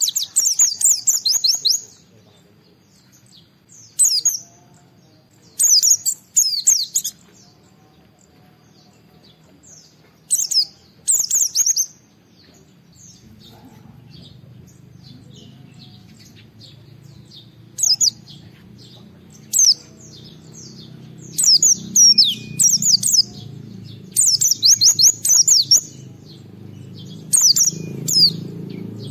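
White-eye (pleci) singing in full voice: short, rapid bursts of high twittering phrases, each a second or two long, repeated every few seconds. A low rumble rises in the background from about halfway through.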